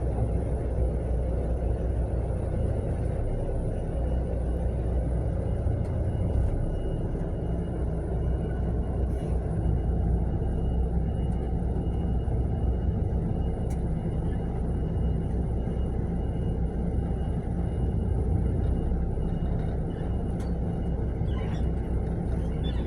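Mercedes-Benz long-distance coach on the move: a steady low rumble of diesel engine and road noise, heard from inside the passenger cabin, with a faint steady high whine over it.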